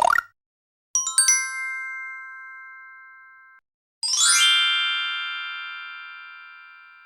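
Two bell-like chime sound effects. About a second in, a quick run of three or four ding notes rings out and stops abruptly; about four seconds in, a fast upward glissando sweeps into a ringing chord that slowly fades.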